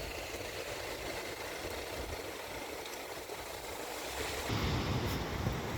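Steady outdoor hiss, then about four and a half seconds in, strong wind starts buffeting the microphone with a low rumble.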